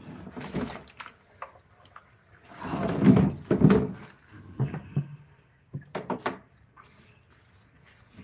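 Irregular knocks and clicks of hard objects being handled, with a louder scraping stretch about three seconds in and a few sharp clicks near six seconds.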